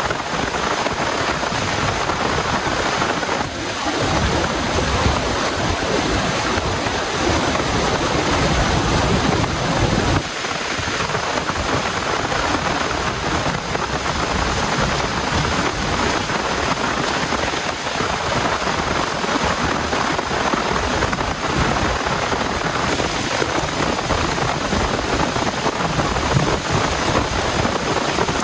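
Heavy rain falling, a dense steady hiss, with the sound changing abruptly about three and a half and ten seconds in.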